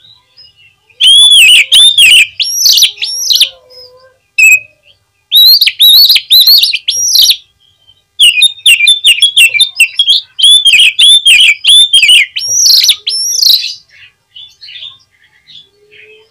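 Oriental magpie-robin (kacer) singing loudly in three runs of rapid, repeated arching whistled notes, with short pauses between the runs.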